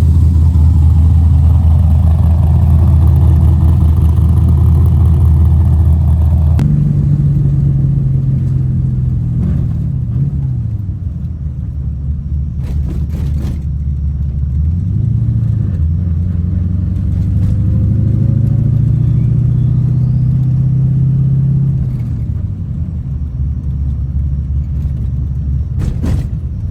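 LS-swap V8 with individual throttle bodies running as it warms up toward thermostat opening. It runs steadily, then about six seconds in its speed steps up and rises and falls a few times, settling back down a few seconds before the end.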